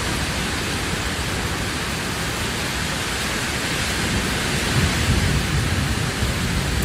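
Heavy rain falling steadily in a rainstorm, an even hiss, with a low rumble swelling about five seconds in.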